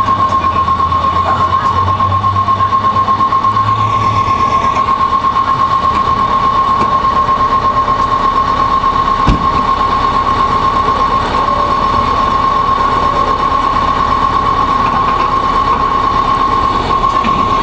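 Fire truck machinery running with a steady high-pitched whine that pulses rapidly, over a low hum that fades after about four seconds. A single knock comes about nine seconds in.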